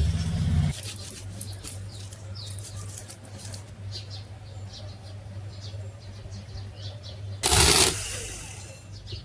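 A steady low electric-motor hum with light high ticks and chirps over it; a louder running sound cuts off sharply under a second in. About seven and a half seconds in, a brief loud whirring burst, like a power tool spun up, fades over about a second.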